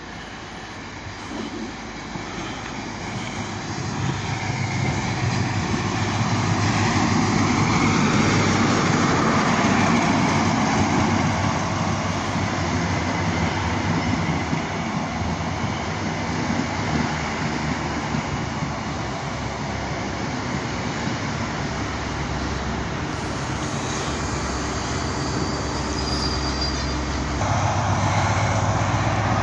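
A GWR High Speed Train (Class 43 diesel power cars with Mark 3 coaches) arrives at the platform. The rumble builds as it approaches, then the coaches roll steadily past as it slows. About 27 seconds in, the rear power car's diesel engine comes up loudly alongside.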